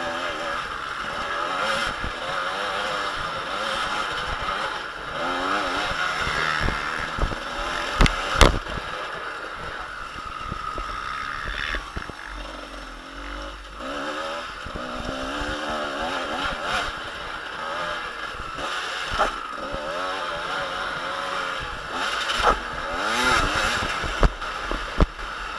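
Motocross bike engines revving hard and passing around the track, their pitch rising and falling again and again. A few sharp knocks cut through, the loudest about eight seconds in.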